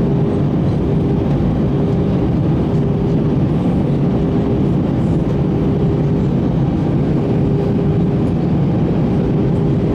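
Steady in-flight cabin noise of an Airbus A321: an even rumble of engines and airflow. A faint humming tone fades in and out over it.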